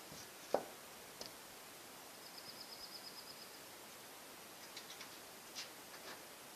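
Small birds chirping, with a rapid high trill of quick repeated notes twice, over faint outdoor background noise. A single sharp knock about half a second in is the loudest sound.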